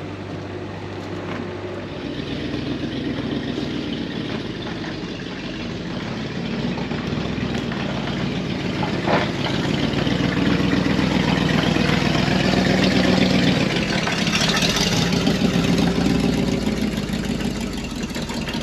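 Vehicle engine running, growing louder through the first two-thirds and easing off near the end.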